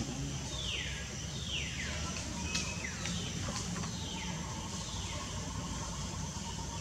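A bird calling over and over, each call a single falling whistle, about once a second. A steady low background hum runs underneath.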